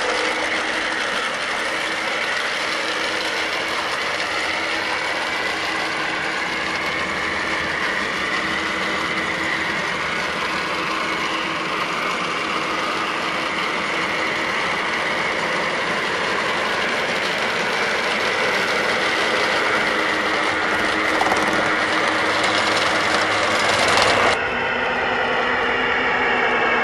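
Gauge 1 Aristocraft Class 66 model locomotive running, its Digisound unit playing a steady diesel engine sound over the model's running noise. About 24 seconds in the sound changes abruptly and the hiss drops away.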